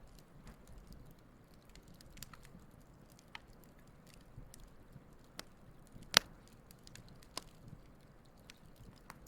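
Wood campfire crackling: scattered small snaps and ticks over a low hiss, with one loud sharp pop about six seconds in.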